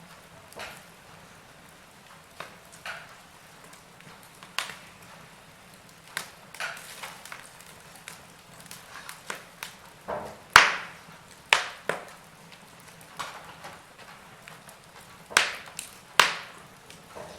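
Wood fire crackling in a fireplace: scattered sharp pops and snaps at uneven intervals over a faint hiss, with the loudest pops a little past the middle and near the end.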